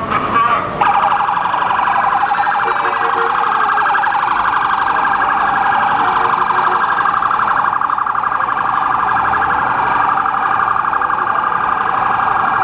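An emergency vehicle's siren sounds a fast, warbling electronic wail that starts about a second in and holds steady.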